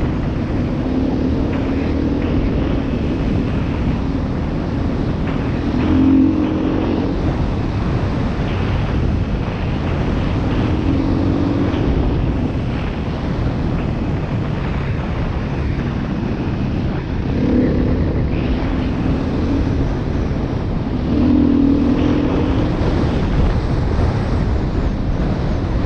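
Beta 500 RR-S single-cylinder four-stroke dual-sport motorcycle engine running under way on a dirt trail, its note swelling several times as the throttle opens, under heavy wind noise on the microphone.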